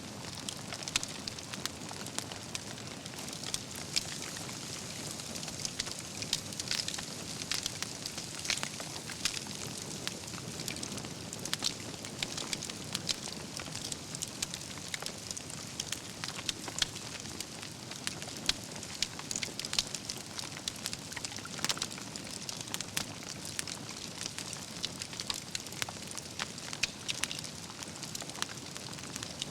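Wood campfire burning: logs crackling with frequent sharp pops of embers over a steady soft hiss of flame.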